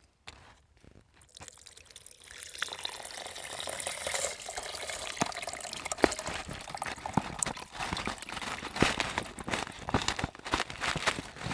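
Partly frozen water being poured through a colander, a steady pour starting about a second in, with sharp clinks as chunks of ice catch in the strainer.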